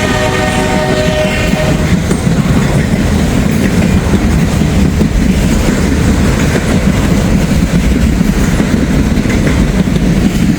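Train passing close while crossing over from track 1 to track 2, a loud steady rumble of wheels on rail. The locomotive's air horn sounds for about the first second and a half, then stops.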